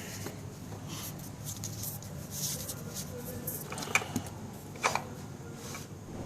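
Scattered clicks and rustling of tools and scooter parts being handled during a starter replacement, with two sharp clicks about four seconds in and again a second later.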